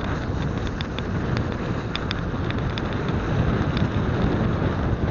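Wind buffeting an action camera's microphone during a mountain-bike ride, with scattered sharp clicks and rattles from the riding.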